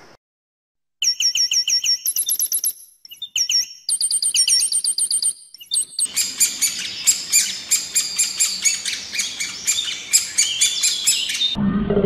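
Small birds calling: quick runs of high repeated chirps, then from about halfway a denser stream of sharp chirps. Just before the end a koala's deep bellow cuts in.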